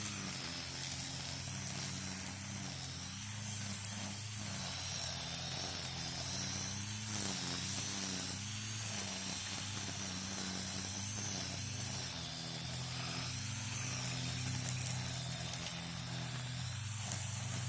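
String trimmer running steadily, its pitch wavering a little up and down.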